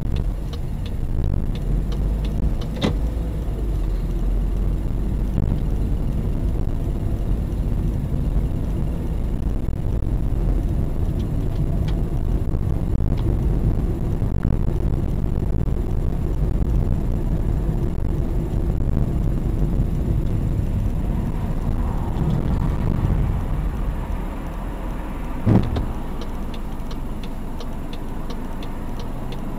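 Car driving, with steady low road and engine rumble that eases off a little over three-quarters of the way through. There is a short click early on, a single knock a few seconds before the end, and faint regular ticking after it.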